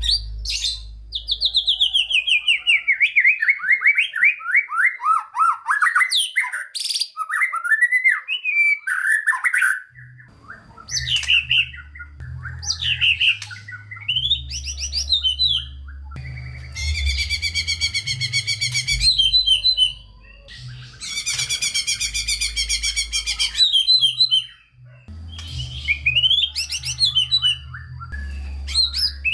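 White-rumped shama (murai batu) in full song: a long run of notes stepping down steadily in pitch over several seconds, then varied quick phrases, and twice a long, rapid rattling trill near the middle. Under much of the song runs a low hum.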